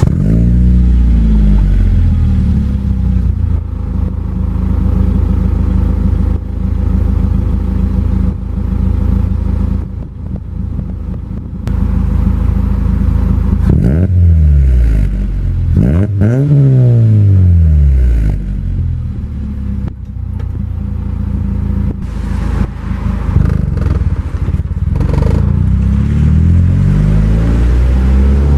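Hyundai Tiburon exhaust through a Magnaflow performance muffler, the engine running steadily and blipped in revs that rise and fall, with a couple of quick revs in the middle and another near the end.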